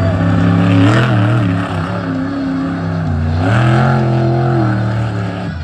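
Monster truck engine revving hard, its pitch climbing about a second in and again around three and a half seconds in, easing off in between and dropping away near the end.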